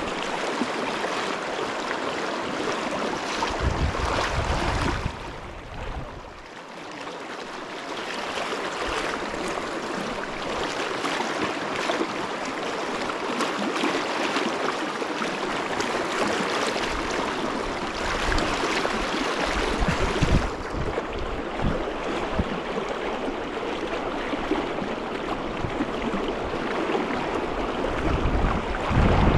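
Steady rushing of river water, briefly quieter about five seconds in, with a few low buffeting rumbles on the microphone.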